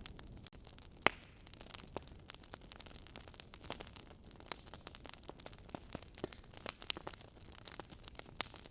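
Wood fire crackling: irregular pops and snaps over a low rumble, with one sharper pop about a second in.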